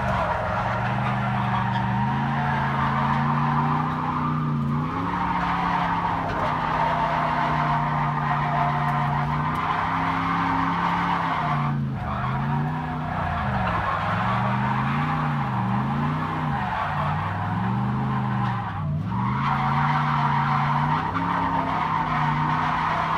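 Toyota Mark II's naturally aspirated 1UZ-FE V8, heard from inside the cabin, revving up and down through a sustained drift while the tyres squeal. The squeal breaks off briefly twice, about halfway and again later, as the engine note dips.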